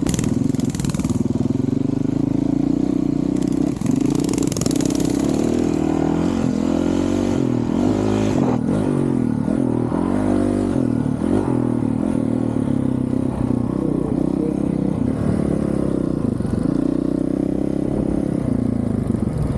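A 2023 Honda CRF450RL's single-cylinder four-stroke engine, fitted with a titanium Yoshimura RS-4 exhaust, running at low revs. The revs rise and fall a few times, most noticeably in the middle stretch.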